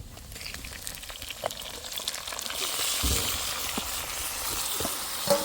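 A steady high hiss that builds up over the first couple of seconds, with a few scattered light clicks and a sharper click near the end.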